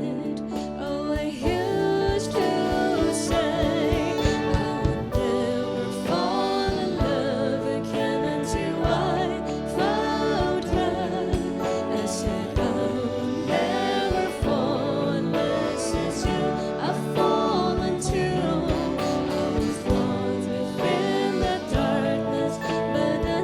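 A live band playing a slow song with a singer's voice carrying a melody with vibrato over sustained instrumental chords.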